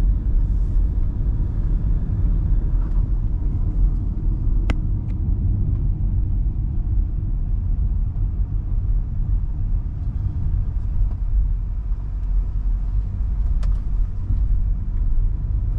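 MG Hector Plus SUV driving at a steady pace: a continuous low rumble of road and drivetrain noise. A sharp click sounds about five seconds in, and another near the end.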